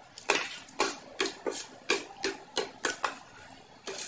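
Close-miked chewing of a mouthful of food, heard as a steady run of sharp, wet mouth clicks, about two or three a second. Near the end, a louder click as a steel spoon scrapes across a steel plate.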